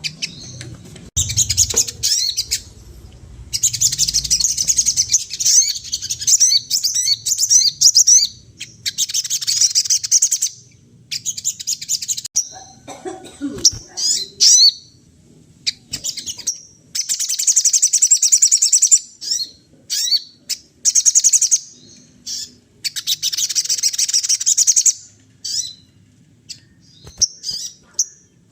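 A sogon songbird singing hard in repeated bursts of rapid, high chattering phrases, each a second or two long, with short pauses between them.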